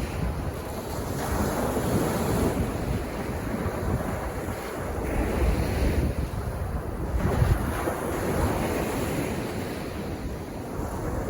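Sea waves breaking and washing up a beach, the surf swelling and ebbing every few seconds, with wind rumbling on the microphone.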